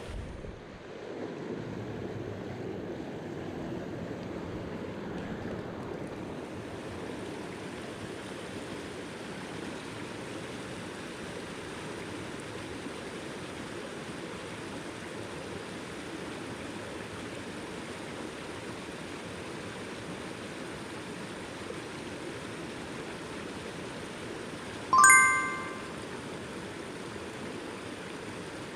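Mountain stream water rushing steadily. About 25 seconds in, a single bright ringing ding cuts through and fades within about a second.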